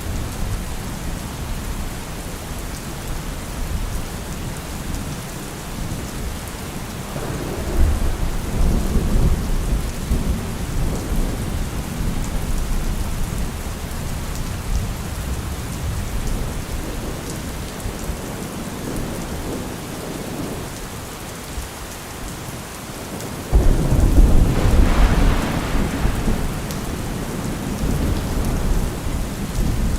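Steady rain falling, with rolls of thunder: one rumble about eight seconds in and a louder, closer peal about twenty-three seconds in that builds and then fades.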